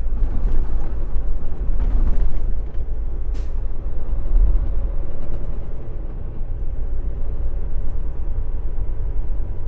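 Semi-truck diesel engine running with a steady low rumble, broken by short hisses of released air about half a second, two seconds and three and a half seconds in.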